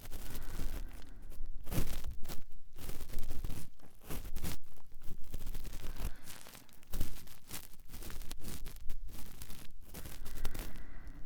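Cotton swab rubbing and scratching inside the ear of an ASMR binaural microphone: close, continuous scratchy rustling made of many short irregular strokes.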